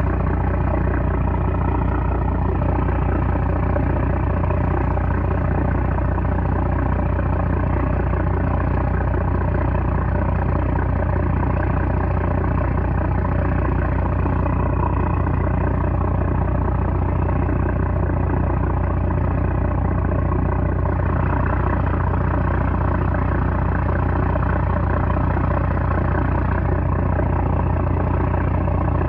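The trawler's 330-horsepower engine running steadily at a constant pitch.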